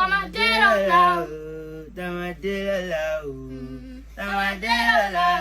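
A voice singing a melodic street-pop line in three phrases, with held and gliding notes and short breaks between them, little or no instrumental backing.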